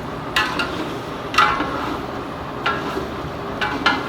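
Spoon clanging and scraping against a pan of chicken gizzards being stir-fried, about five sharp strikes over a steady hiss of frying.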